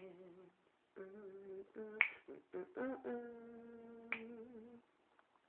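Finger snaps keeping time, two sharp snaps about two seconds apart, while a single voice holds long, soft, wordless sung notes between the song's lyric lines.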